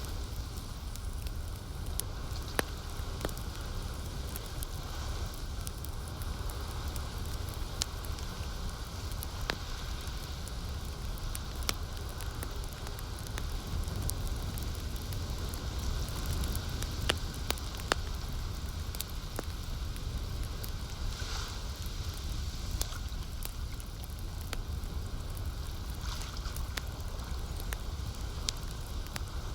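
Campfire burning, crackling with scattered sharp pops over a steady low rush.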